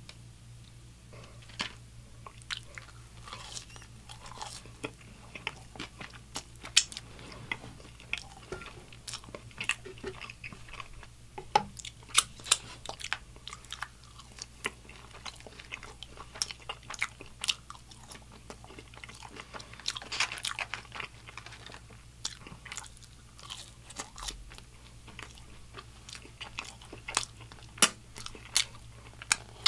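Close-miked eating sounds: a man biting and chewing french fries by hand, with many sharp crunchy clicks and wet mouth smacks, and fingers being licked.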